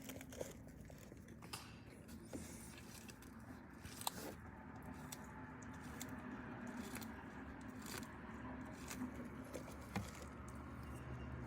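Sulcata tortoise biting and chewing dandelions: faint, scattered crunching and tearing clicks every second or so.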